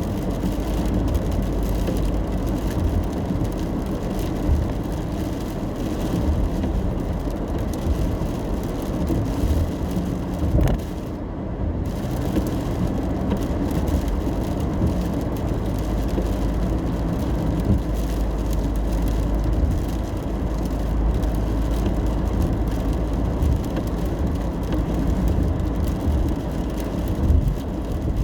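Steady road noise of a car driving in the rain, heard from inside: a low rumble of engine and tyres under an even hiss. Near the middle the hiss briefly drops away for about a second.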